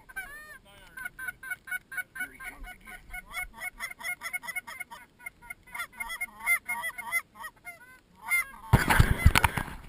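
A flock of birds calling, with many short calls repeating several times a second and overlapping. Near the end there is a loud burst of noise lasting about a second.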